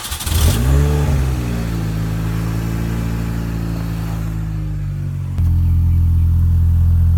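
Supercharged four-cylinder engine of an R53 Mini Cooper S with a one ball mod exhaust catching after a start: the revs flare up briefly and settle into a steady idle. About five seconds in, the idle abruptly becomes louder and deeper.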